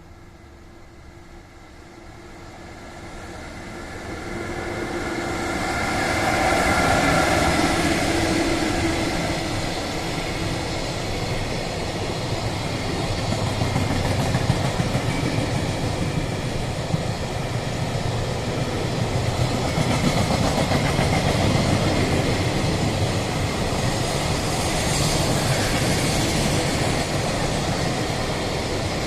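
Electric train approaching and then running past close by on the track, growing loud a few seconds in and staying loud for over twenty seconds.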